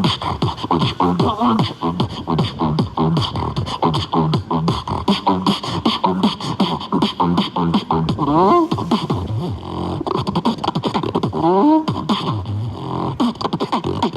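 Human beatboxing: a fast, unbroken stream of mouth-made kick, snare and hi-hat sounds with a low vocal bass line, broken twice by a wobbling pitched vocal glide, a little past halfway and again about three seconds later.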